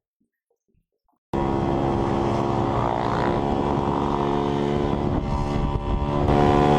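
Silence, then about a second in a vehicle engine drone starts abruptly and runs loud and steady at an even pitch.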